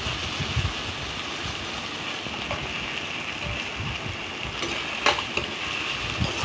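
Onion, tomato and curry-leaf masala sizzling steadily in gingelly (sesame) oil in a kadai, with a few clicks of the stirring spoon against the pan, the sharpest about five seconds in.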